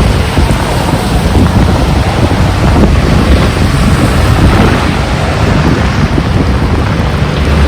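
Strong wind gusting across the microphone with a dense rush of heavy rain beneath it, loud and unbroken.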